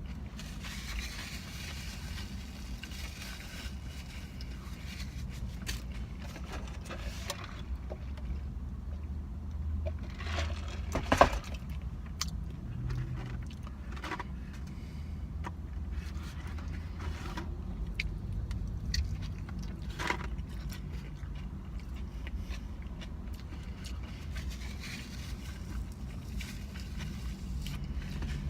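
Eating sounds: chewing a shrimp taco and handling the food, with scattered small clicks and rustles and one sharper click about eleven seconds in, over a steady low hum.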